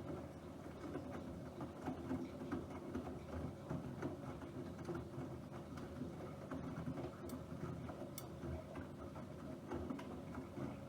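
Bosch Aquasensor WFP3231 washing machine running: a steady low hum with rapid, irregular pattering and ticking.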